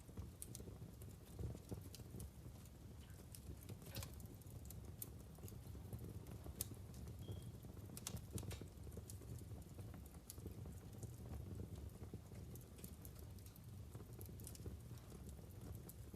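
Wood logs burning in a fireplace, crackling with irregular sharp pops over a low, steady rumble. A few louder pops come about four and eight seconds in.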